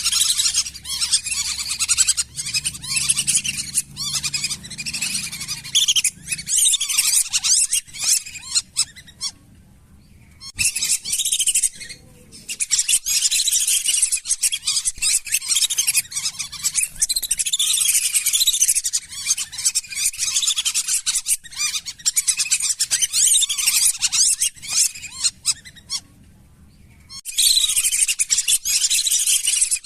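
Lesser whistling ducks calling: a flock's dense, high whistling chatter that breaks off briefly about a third of the way in and again near the end.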